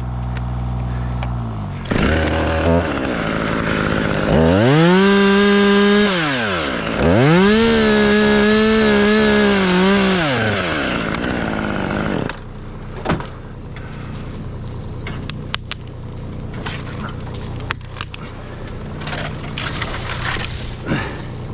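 Chainsaw idling, then run up to full speed twice for a few seconds each while cutting a break cut, dropping back to idle between and after. A few sharp knocks follow in the second half.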